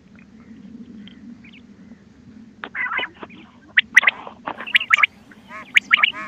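Quail calls played from a hunting-call cassette recording: after a low hum, a quick, irregular run of short, sharp calls starts about two and a half seconds in and grows busier toward the end.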